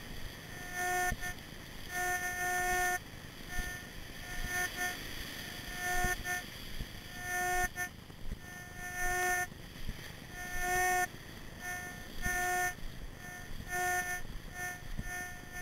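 Minelab Excalibur metal detector giving target beeps: short and longer tones at one unchanging pitch, coming irregularly as the coil sweeps over buried metal. A low steady rumble runs underneath.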